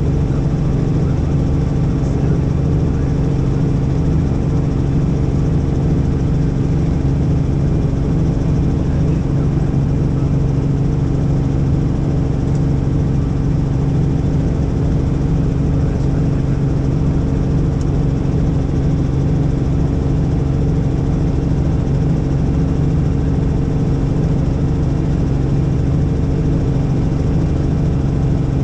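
Helicopter in flight: steady drone of the turbine and rotor, one unchanging low hum with a rumble beneath it.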